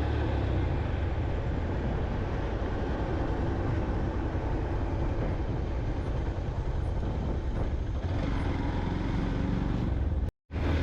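Yamaha motorcycle cruising steadily on a highway: a steady engine drone with road and wind noise. The sound cuts out briefly near the end.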